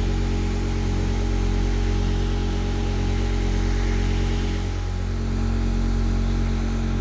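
Electric power-tool motor running at a constant speed: a steady hum with an even hiss over it that does not change.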